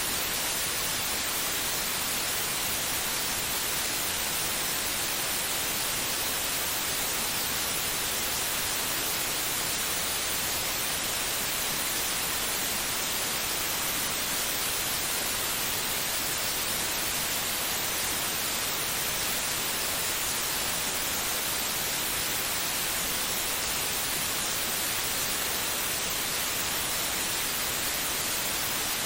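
White noise played as a baby sleep aid: a steady, unchanging hiss, brighter in the high end, with no rhythm or breaks.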